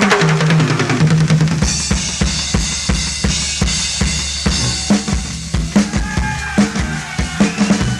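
Drum kit played solo in a live band show, with rapid strikes on bass drum and snare. A bright wash comes in about two seconds in.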